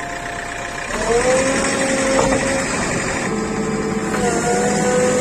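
JCB 3DX backhoe loader's diesel engine revving up about a second in and holding at higher revs as the machine works, dipping briefly near the end before picking up again.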